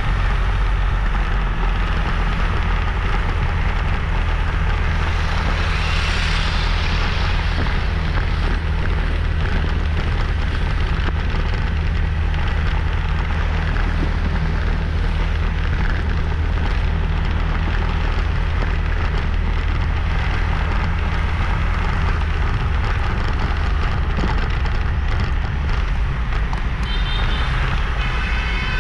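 Motorbike ride: the engine runs steadily under wind and road noise, with a louder swell about six seconds in. Near the end, a short high tone sounds, like a vehicle horn.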